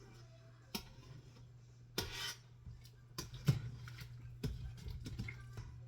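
Scattered clinks and knocks of kitchen utensils and cookware, about eight in all, with a brief scraping rustle about two seconds in, over a steady low hum.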